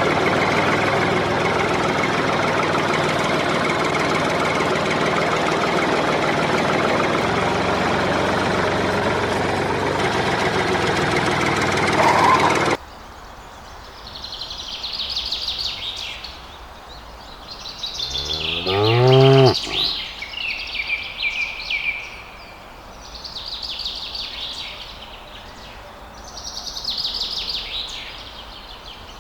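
A loud, dense noise cuts off abruptly about thirteen seconds in. It gives way to birds chirping in repeated short bouts, and at about nineteen seconds a loud low call rises in pitch.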